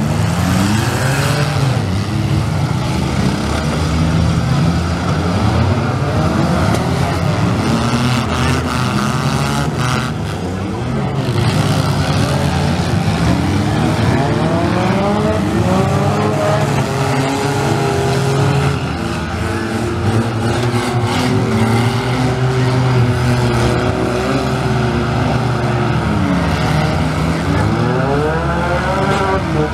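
Several compact demolition-derby cars' engines revving hard together, their pitches rising and falling over and over as the cars ram and push each other, with now and then a knock of a hit.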